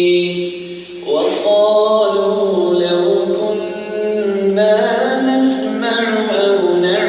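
Male voice reciting the Quran in melodic tajwid style. A long held note fades out about a second in, and then a new slow, ornamented phrase of drawn-out gliding notes begins.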